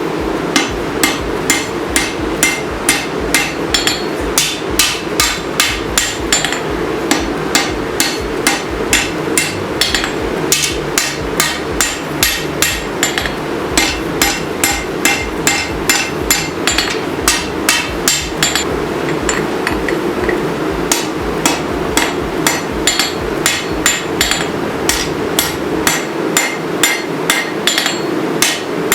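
Hammer blows on hot steel at an anvil, hand-forging the sword blade, about two ringing strikes a second with short pauses, over a steady rushing noise.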